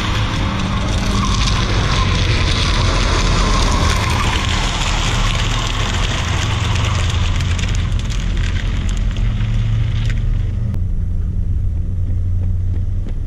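Honda Insight's 1.0-litre three-cylinder engine running under throttle as the car drives around the lot, with a steady rushing noise over it that drops away about ten seconds in.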